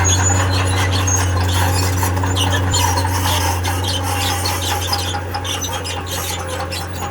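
Diesel engine of a tracked earthmoving machine running steadily under load, easing off slightly near the end, with high squealing and scraping from its steel tracks.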